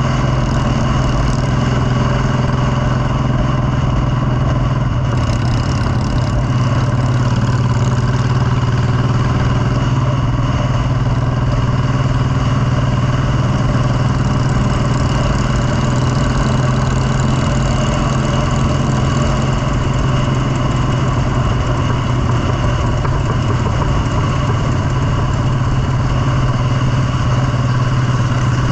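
Motorcycle engine running at a steady speed, a loud constant low drone with no change in pitch.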